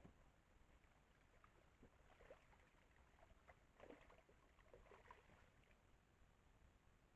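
Near silence with faint scattered rustles and soft ticks, a few grouped about two seconds in and again around four to five seconds; no call is heard.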